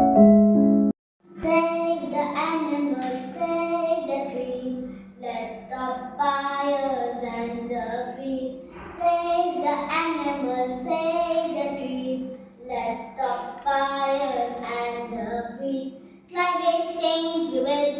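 Children singing a melody in phrases a few seconds long with short breaks, over a steady low hum. An electric-piano chord sounds at the start and cuts off about a second in, just before the singing begins.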